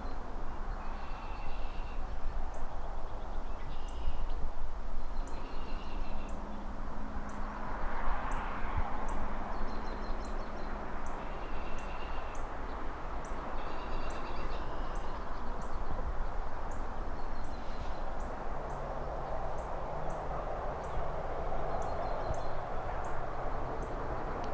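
City ambience heard from a height: a steady wash of distant traffic and rustling trees that swells twice as cars pass, with birds chirping in short repeated phrases. A faint high tick repeats about twice a second.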